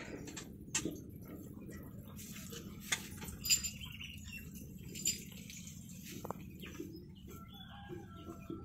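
Faint bird chirps, with a few scattered small clicks and knocks.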